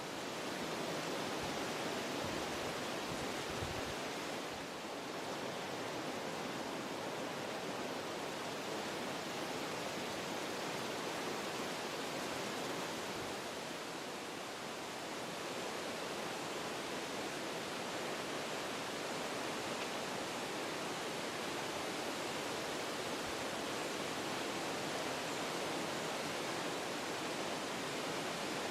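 Wind blowing through forest trees, a steady rushing noise that swells and eases gently in gusts.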